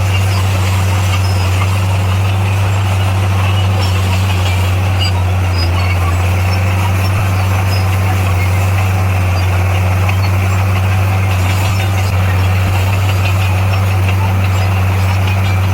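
Heavy-equipment diesel engine running steadily with a constant deep hum, with no change in speed.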